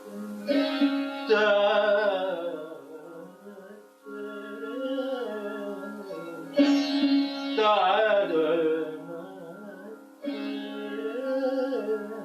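Indian classical plucked string instrument playing a slow phrase of Raag Kirvani: a few struck notes, each bent up and down in pitch as it fades, over a steady drone.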